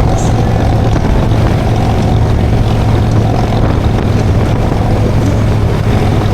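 Motorcycle engine running at a steady cruise with wind rushing over the microphone, a constant low drone that stays even throughout.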